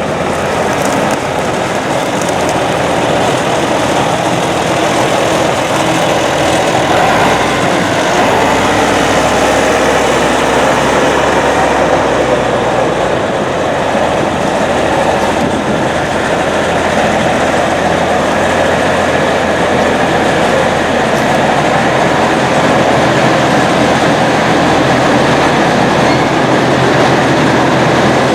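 Farm tractor running steadily while being driven: a loud, constant engine and machinery noise, with a low engine tone that shifts partway through.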